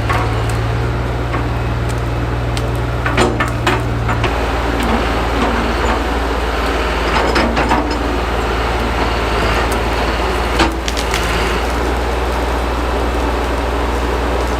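1968 Atlas excavator's engine running steadily, its note shifting about four seconds in, with wood cracking and splintering as brush and branches are broken. The cracks are sharpest around three to four seconds in and again near eleven seconds.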